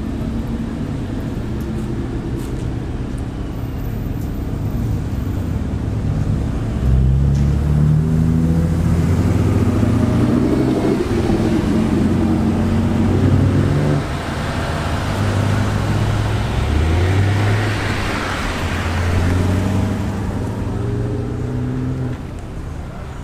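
A car engine accelerating hard past the listener. Its pitch climbs, drops at each gear change and climbs again several times, loudest in the middle.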